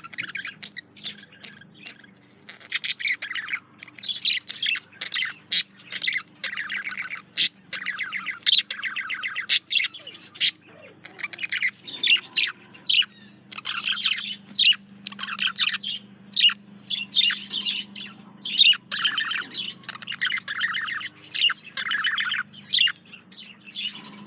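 Male budgerigar warbling to a female in courtship: a rapid, nearly continuous chatter of short raspy chirps, clicks and squawks, broken by brief pauses.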